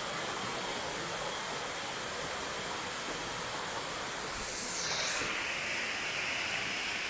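Steady rushing of a waterfall. About four and a half seconds in there is a brief high swooping sound, and after it the water hiss grows a little stronger.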